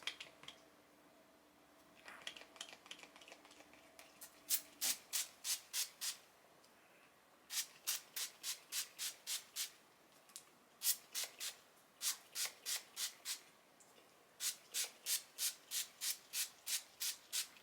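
Hands working strands of hair close to the microphone while twisting it, a dry rubbing swish in four runs of quick, even strokes, about three a second.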